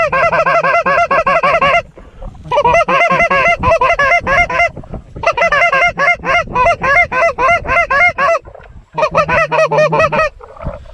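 Goose call blown in fast, very even runs of short honks and clucks, about six notes a second, in four bursts with brief breaks: calling to Canada geese working over the decoy spread.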